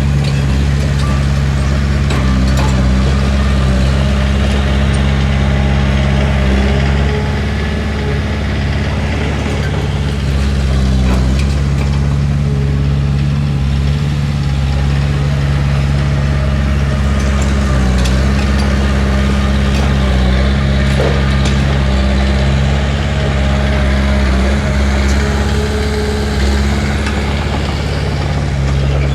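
Diesel engine of heavy earthmoving machinery running steadily under light load, with a deep, even drone and a few faint metallic clicks.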